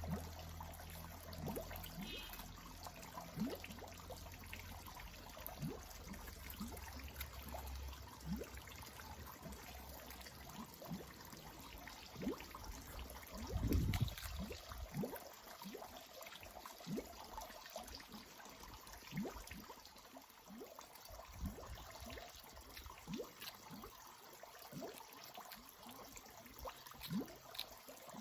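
Water trickling and pouring, with scattered light knocks and one louder thump about fourteen seconds in.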